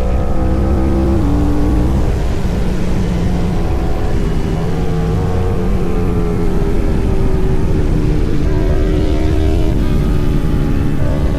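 Sport motorcycle engine running while riding, its pitch shifting up and down with the throttle, over a dense low rumble.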